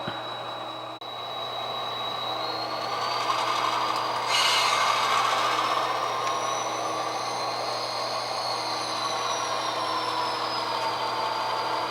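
HO-scale GP38 model diesel locomotive pulling away with two cars: its sound-equipped engine and motor run with a whine that rises in pitch and then slowly eases off. A short hiss comes about four seconds in.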